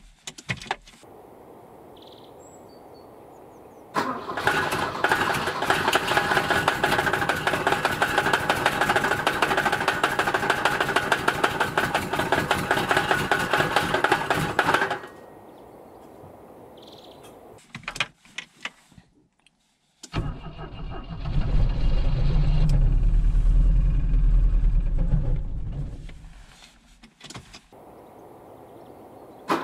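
A 1986 Volvo 245 DL's carbureted B23A four-cylinder engine being cranked on a cold start at −14 °C. The starter turns it over with a rapid, even pulsing for about eleven seconds. After a pause and a few clicks, a second attempt of about six seconds sounds deeper, swells and then dies away.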